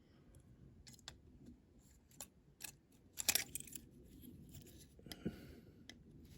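Scattered small clicks and scrapes of a 1:64 die-cast model's base being pressed and worked into its metal body, with the loudest clicks a little past the middle.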